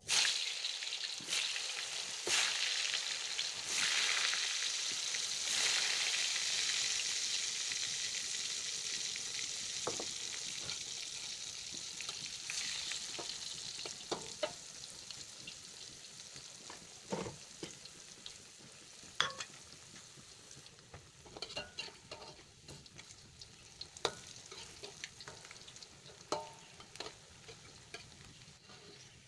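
Slices of tempeh deep-frying in hot oil in a wok: a loud sizzle that starts suddenly and slowly dies down. In the second half a metal spatula clicks and knocks against the wok now and then.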